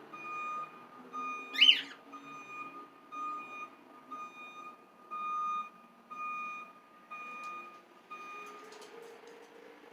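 Electronic alarm beeping: one steady high tone switching on and off about once a second, stopping shortly before the end. About a second and a half in, a single loud short bird screech cuts across it.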